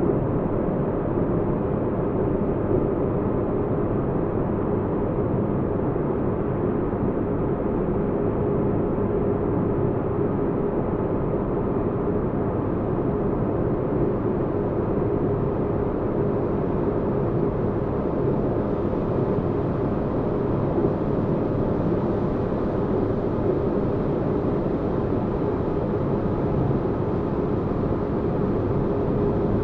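Sci-fi spaceship-interior ambience: a steady deep rumble with a constant hum running through it, unchanging throughout.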